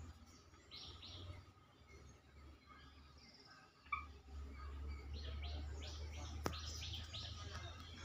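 Small birds chirping faintly in short high calls, a spell near the start and another in the second half, over a low rumble on the microphone. A sharp click sounds about six and a half seconds in.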